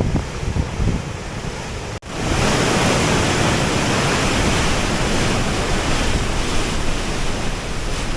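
Overflow water rushing out in a torrent from the outlet at the foot of a dam. It is loud and steady, cuts out for an instant about two seconds in, then comes back louder.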